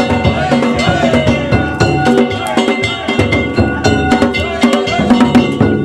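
Danjiri festival music: a taiko drum beaten in a steady rhythm under loud, clanging metal gongs (kane), ringing on continuously.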